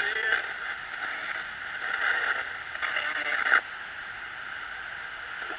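Radio static from a ghost-hunting spirit box sweeping through stations: a thin, tinny hiss with choppy flickering bursts that drops back to a quieter hiss a little past halfway.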